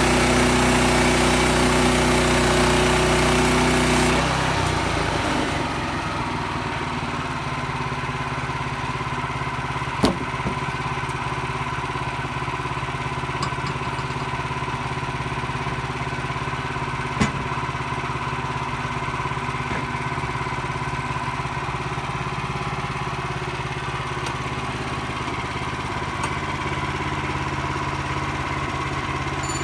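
Sawmill's gasoline engine running at high speed, then dropping to a steady lower idle about four to five seconds in. Two sharp knocks come later, about seven seconds apart.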